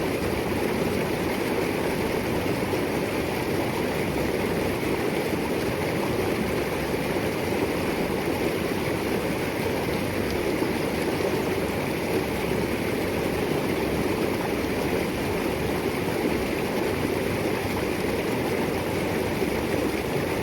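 A small stream rushing steadily over river rocks, an even wash of running water.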